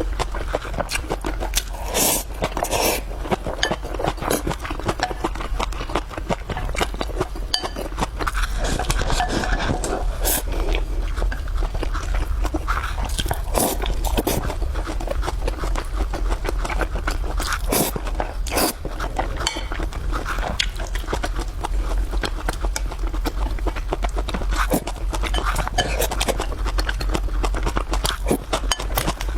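A person eating noisily, with dense irregular chewing and mouth clicks and an occasional scrape throughout, over a constant low hum.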